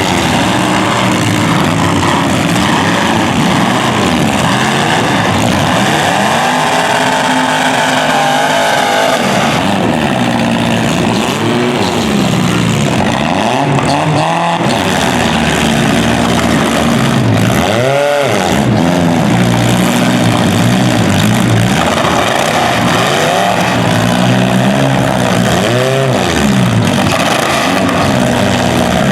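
Several demolition derby cars' engines revving at once, their pitches rising and falling over one another.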